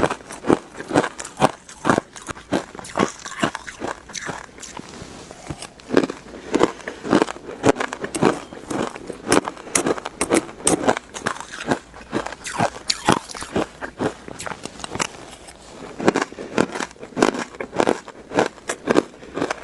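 Close-up chewing of shaved ice: rapid, repeated crunches, several a second, with a couple of brief lulls.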